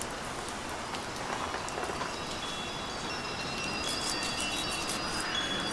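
Steady rain hiss. About three seconds in, high chime-like tones and light high ticks come in over it as a song's intro begins.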